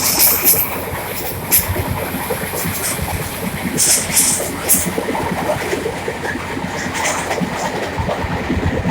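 Train running along the track: a steady rumble with irregular clicks and rattles of the wheels and cars, and a few brief high hissing bursts near the start and about four seconds in.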